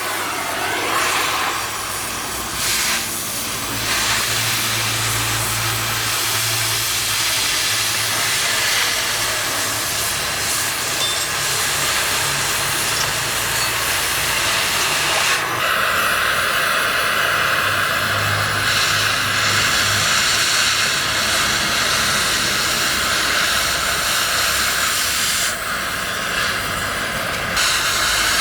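Gas cutting torch flame hissing steadily and loudly while cutting metal, its tone shifting brighter about halfway through.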